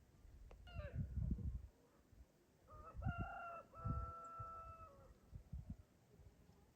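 A rooster crowing: a stepped crow of about two seconds ending on a long held note, with a shorter falling call about a second in. Low thuds and rumble close to the microphone sound over it.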